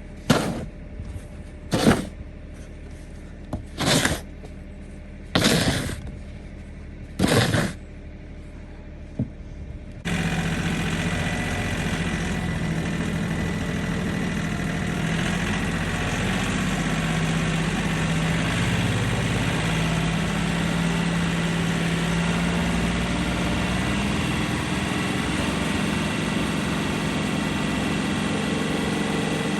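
Six short scraping bursts about every one and a half seconds, then, about ten seconds in, a sudden switch to a machine's engine running steadily.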